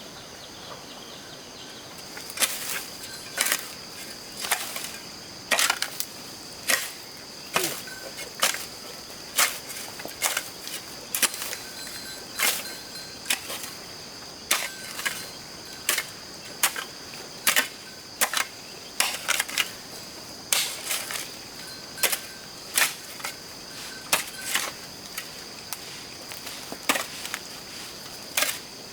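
Repeated sharp strikes of a digging tool into the ground, about one a second, digging a hole to bury a dead chicken. A steady high-pitched drone runs underneath.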